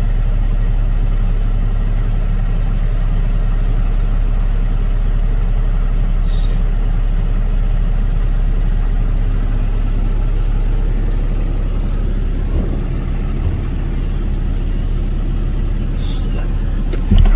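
Heavy truck's diesel engine idling steadily, a deep even drone, with a brief hiss about six seconds in.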